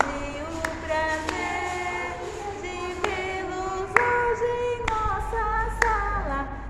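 Music: a woman singing a melody, with sharp percussive hits every second or so.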